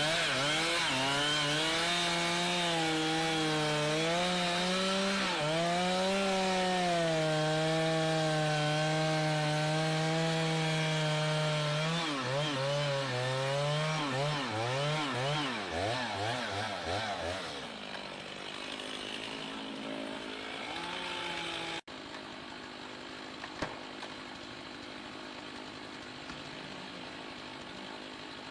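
Two-stroke chainsaw running at high speed while cutting into a large tree, its engine pitch dipping and rising as the chain loads in the wood. About twelve seconds in the pitch wavers quickly up and down, then the saw fades away. After an abrupt break a little past twenty seconds, only a quieter steady noise remains.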